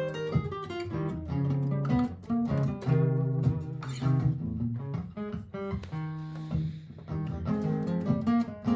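Martin GPCPA4 acoustic guitar playing: quick picked notes and strums over held low notes, with looped guitar parts under an improvised line.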